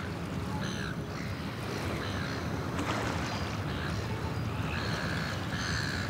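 Birds calling repeatedly, short calls about once a second, over the steady wash of surf on a pebble beach.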